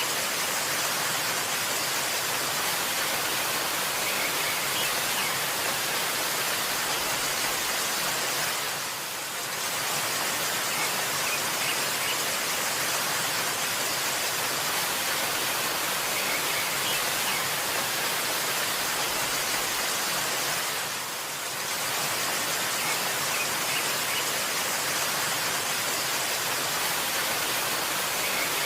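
Waterfall rushing: a steady, even hiss of falling water that dips briefly twice.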